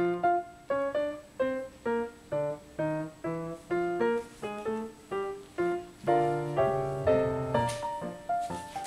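Piano music: a slow melody of struck notes, about two a second, each fading away, with fuller chords about six seconds in.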